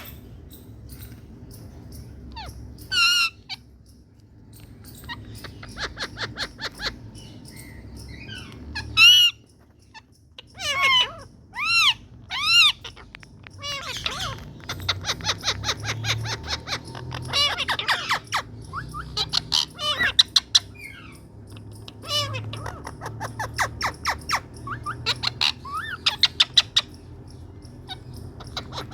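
Indian ringneck parakeets calling: several loud shrill screeches, between long runs of fast chattering.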